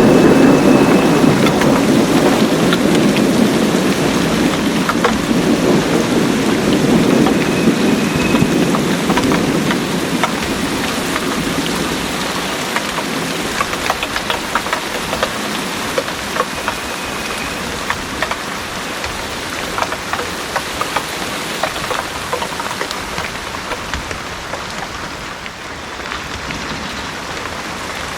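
Heavy rain falling, with a low roll of thunder that fades away over the first ten seconds or so. Steady rain with sharp, close drop splashes remains.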